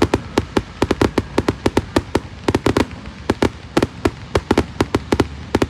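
Fireworks going off: a rapid, irregular run of sharp bangs and cracks, about four a second and some in quick clusters, over a continuous low rumble.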